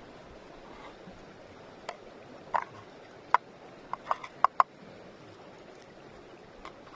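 About seven short, sharp knocks at uneven intervals over a couple of seconds, the loudest in the middle, above a faint steady background hiss.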